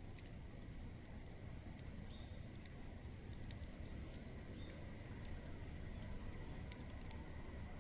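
Bonfire crackling: scattered sharp pops and snaps over a low, steady rumble.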